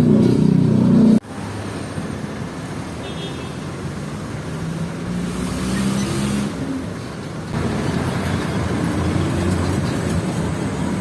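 Road traffic with a motor vehicle's engine running, a steady rumble and hiss of the street. The sound changes abruptly about a second in and again past the middle.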